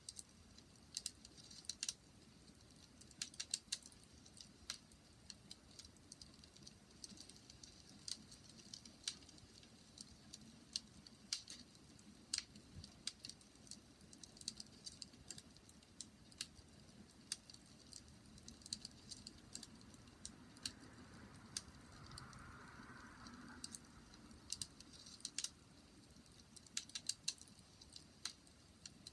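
Wood fire crackling: quiet, irregular sharp pops and snaps, some in quick clusters, with a soft hiss for a couple of seconds past the middle.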